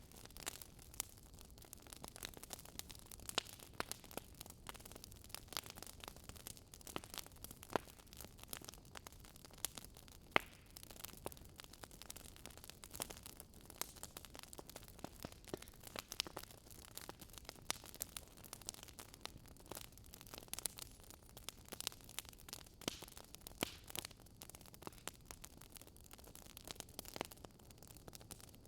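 Wood fire crackling: irregular small pops and snaps over a faint steady hiss.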